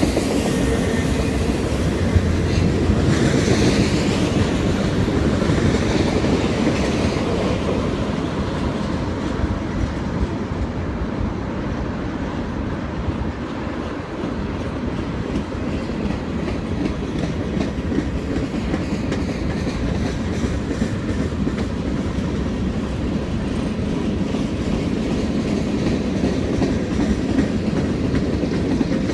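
A train rolling past, its cars rumbling steadily and clacking over the rail joints.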